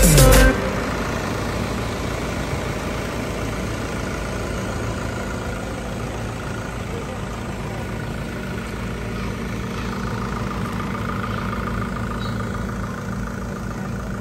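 Background music cuts off about half a second in, giving way to a vehicle engine idling steadily.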